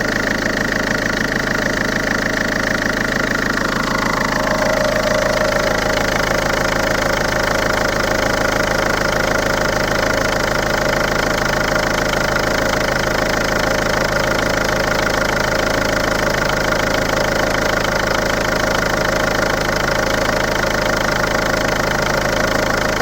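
Ford 1.4 TDCi four-cylinder diesel engine, with 268,000 km on it, running steadily at idle with the usual diesel clatter. Its tone shifts a little about four seconds in, then holds steady.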